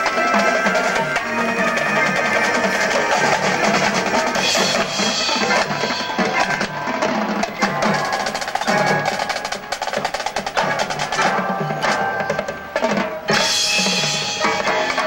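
Marching band percussion section playing: fast snare drum rolls and bass drums with mallet keyboards, dense and rhythmic. It thins briefly near the end, then comes back in full.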